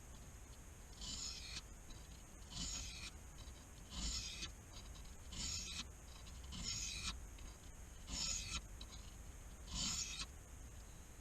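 Pocket knife blade drawn across a soaked 400-grit whetstone: seven evenly spaced sharpening strokes, about one every one and a half seconds. This is the coarse first stage of sharpening, taking the scratches off a rough edge.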